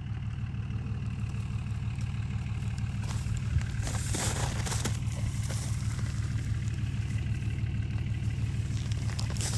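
Vehicle engine running steadily at low revs, a low, evenly pulsing rumble that fades in just before and holds level throughout.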